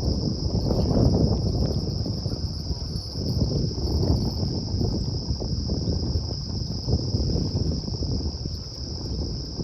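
Steady, unbroken high-pitched trilling of crickets or other insects in chorus, over a loud, uneven low rumble.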